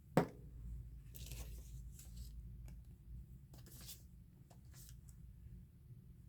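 Book-page paper being handled, with a sharp light knock just after the start and a few short rustles and swishes of the paper.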